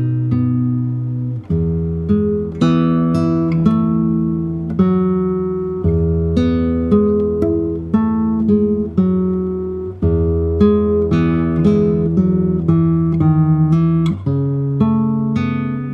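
A solo acoustic guitar playing a fingerpicked piece. Single plucked melody notes each ring and fade over held bass notes, with a quick flutter of repeated notes near the end.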